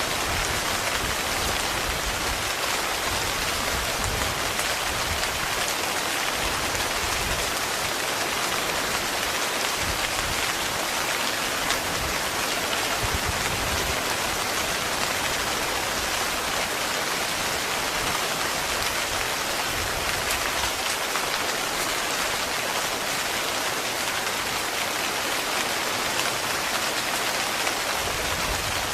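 Heavy rain falling steadily on a tent, a dense even patter.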